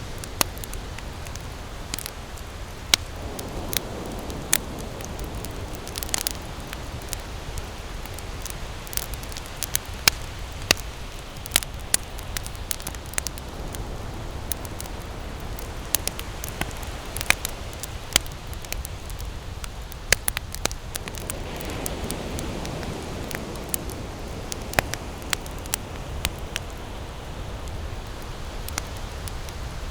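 Wood campfire crackling, with frequent irregular sharp pops over a steady low rumble. Two soft swelling washes come through, one a few seconds in and another past the two-thirds mark.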